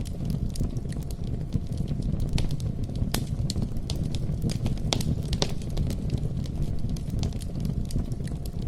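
Wood campfire burning: irregular sharp pops and crackles over a steady low rumble of flames.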